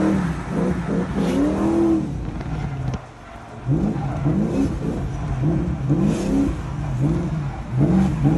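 Drift car's engine revving up and down over and over under rapid on-off throttle, about two rises a second, with a brief lift-off dip about three seconds in.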